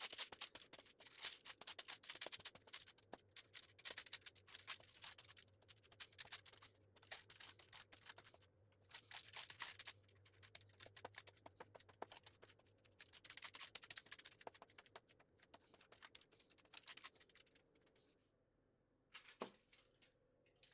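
Faint, rapid, irregular clicking and scratching from hands-on kitchen work, stopping about eighteen seconds in.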